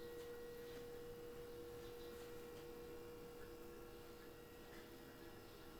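A faint, steady humming tone at one pitch, easing slightly quieter toward the end.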